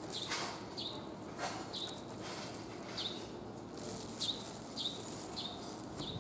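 A small bird chirping repeatedly: short high notes that drop slightly in pitch, coming about once a second, with some rustling underneath.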